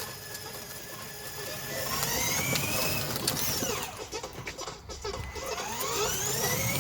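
Small electric motor of a ride-on toy truck whining, its pitch rising as it speeds up about two seconds in and again near the end, with a few clicks and rattles in between.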